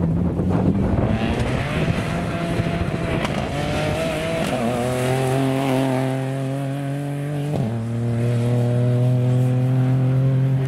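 Rally car engine held at high revs as the car passes at speed on a wet stage, its note steady between two drops in pitch, about four and a half and seven and a half seconds in, as it changes up a gear.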